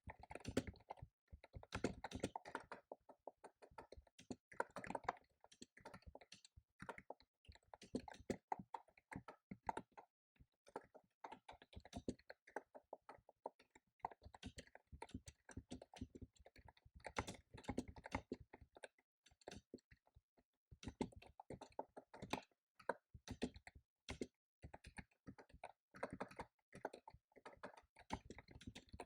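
Computer keyboard typing: fast runs of keystroke clicks in bursts, with short pauses between them.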